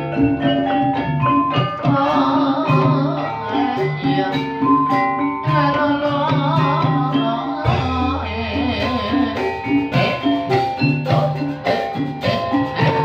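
Live ebeg dance music: an ensemble of tuned mallet percussion and drums playing a steady, even rhythm, with a singer's voice coming in about two seconds in and dropping out near the middle.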